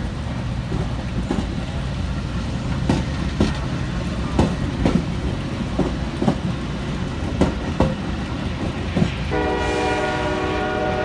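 A passing train rumbling, its wheels clicking over rail joints in pairs about half a second apart. Near the end the locomotive's horn sounds a long chord.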